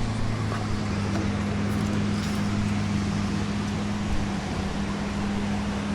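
A motor running steadily: an even low hum with a held drone and its overtone, over a haze of background noise.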